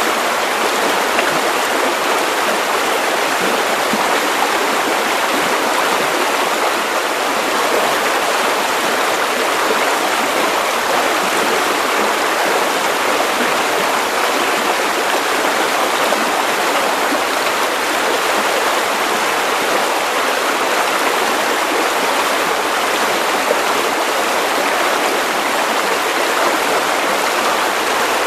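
Steady white noise: a constant, even hiss with no changes and very little deep bass.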